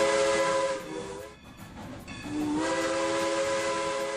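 Steam locomotive whistle blown twice over a hiss of steam: a long blast that ends about a second in, then a second blast that begins with a slight upward slide in pitch and holds steady.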